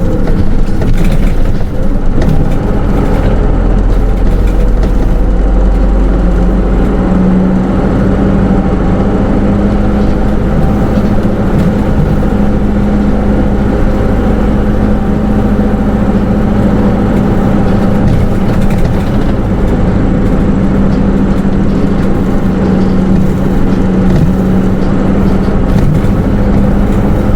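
Hino Rainbow II SDG-KR290J1 midsize bus with automatic transmission running under way, heard from inside the cabin: a steady engine and drivetrain drone over road noise, its pitch rising a little about a quarter of the way in and then holding steady.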